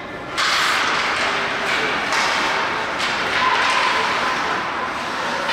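Ice hockey game sounds in an arena: a steady scraping hiss, with scattered knocks and taps and some voices, in a reverberant rink.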